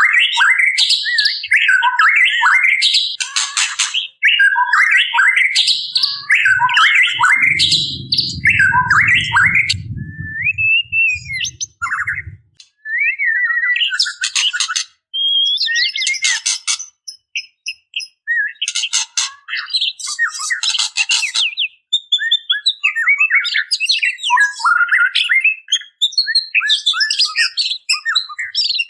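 Female white-rumped shama calling in quick, varied phrases of chirps and whistles mixed with harsh rattling 'ketrek' notes, with short pauses between the phrases. A low rumble runs underneath from about six to twelve seconds in.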